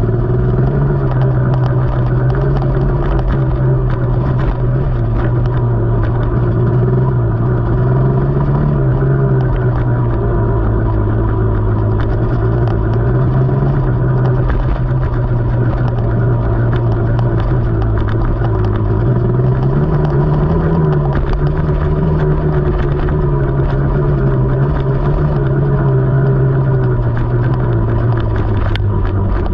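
KTM 300 two-stroke enduro dirt bike engine running while riding a trail, its pitch wavering gently with the throttle and lifting a little about two-thirds of the way through, with scattered short clicks over it.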